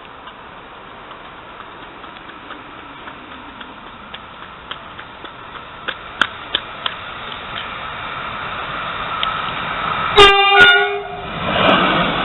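An approaching train's rumble grows steadily louder. About ten seconds in it sounds its horn once for about a second, and the loud noise of the train going by follows.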